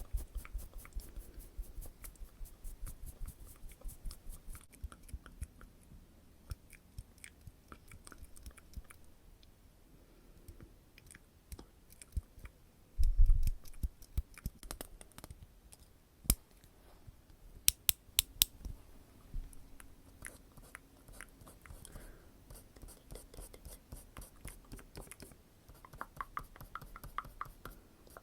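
Close-miked ASMR mouth sounds and tapping: a dense run of soft wet clicks and quick taps, with a heavy low thump about 13 seconds in and a few sharp clicks a few seconds later.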